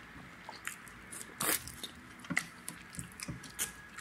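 Close-up chewing and mouth smacking of people eating tripe and pap with their hands, heard as scattered short clicks and smacks. The strongest comes about a second and a half in.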